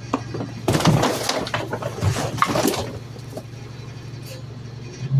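Garbage truck engine running steadily at a low hum, with a loud, noisy, clattering burst lasting about two seconds near the start.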